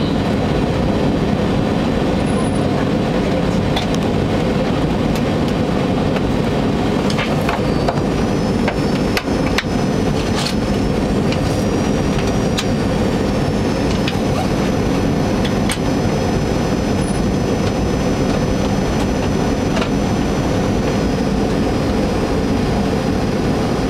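Steady cabin noise inside a Boeing airliner in flight: the jet engines and the air rushing past the fuselage, with scattered light clicks and rattles.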